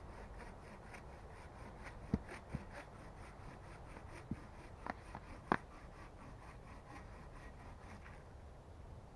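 Rhythmic scraping, about four strokes a second, stopping about eight seconds in, with a few sharp clicks along the way.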